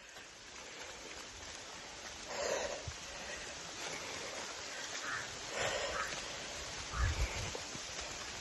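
A person breathing hard while climbing, with three heavy breaths about three seconds apart over a steady hiss, and a few low thumps near the end.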